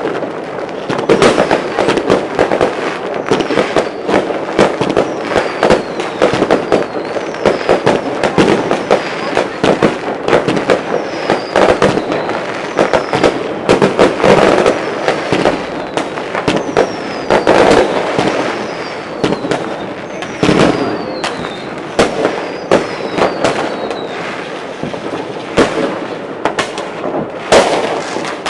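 New Year's fireworks and firecrackers going off in a dense, irregular barrage of bangs and pops, with the falling whistles of whistling fireworks heard several times.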